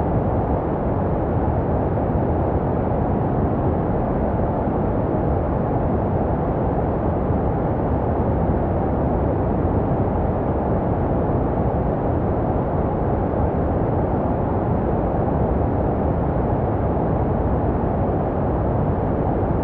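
Steady, muffled low hiss of baby sleep white noise, deep rather than bright, with no change in level. It is made to resemble the sounds a baby hears in the womb.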